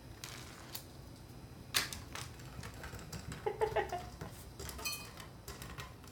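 Scattered light clicks, taps and rattles from cats playing with a Da Bird feather wand toy, clustering about three and a half to five seconds in, with a short squeak among them.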